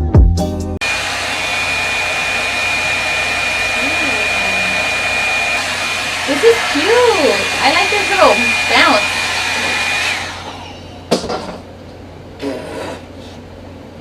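Revlon One-Step hair dryer brush running with a steady rush of air and a thin high whine, then switched off about ten seconds in. A few short knocks follow.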